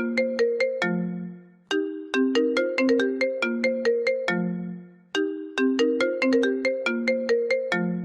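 iPhone ringtone playing: a short melody of quick plucked notes that ends on a longer low note, repeating about every three and a half seconds.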